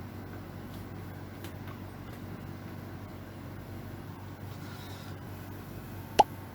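Steady low hum with a few faint taps, and one sharp click with a brief ringing tone about six seconds in.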